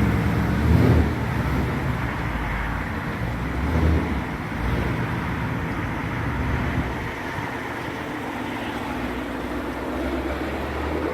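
A car's engine running with road noise, as while driving. The low hum eases a little about seven seconds in.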